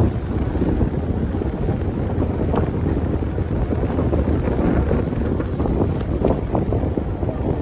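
Steady low rumble of a Chevy plow truck running while plowing snow, with wind buffeting the microphone.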